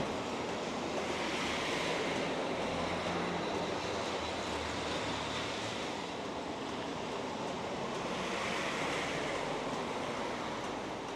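Steady hiss of street noise in wet weather, with tyres swishing on a wet road as vehicles pass, one swelling about a second in and another near the end.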